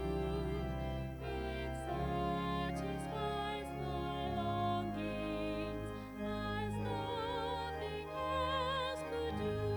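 Church music: a solo voice singing long notes with strong vibrato over steady, sustained low accompaniment.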